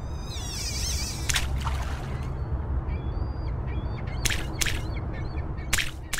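Outdoor nature ambience: birds calling, with a wavy high call near the start and a few short, harsh calls later, over a steady low rumble.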